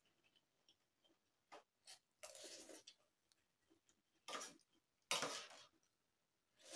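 Instant noodles being slurped and eaten in three short, noisy bursts, with faint clicks in between.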